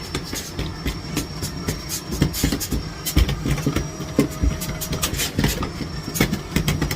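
Miele Blizzard CX1 cylinder vacuum cleaner running steadily, with many irregular knocks and clatters as it is worked.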